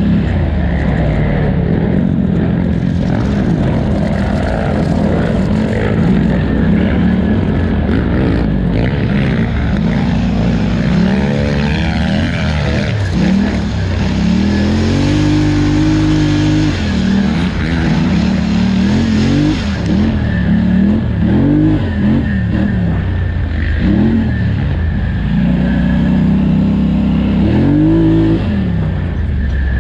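Polaris Scrambler 1000 XP ATV engine at race pace, running continuously with its pitch rising and falling again and again as the throttle is worked on and off.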